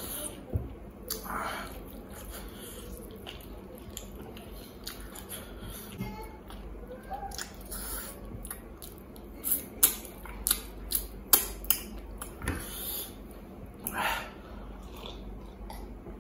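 Close-up eating sounds of a person chewing mutton and rice eaten by hand: wet mouth clicks and smacks, coming thick and loud in a run about ten seconds in.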